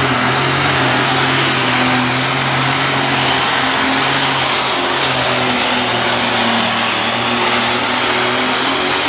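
Super stock pulling tractor's turbocharged engine running flat out at a steady high pitch during a pull, with a thin high-pitched turbo whine over the engine note. The sound drops away right at the end.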